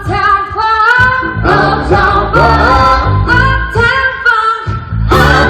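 Live band playing and singing an upbeat funk-pop song: short sung phrases over a steady bass line.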